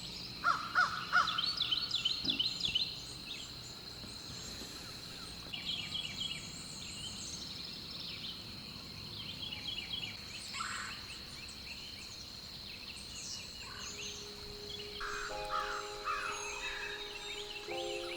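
Birds calling outdoors over a steady high-pitched hum, with the loudest calls in the first few seconds and scattered chirps and trills after. About fifteen seconds in, sustained music notes come in beneath the birds.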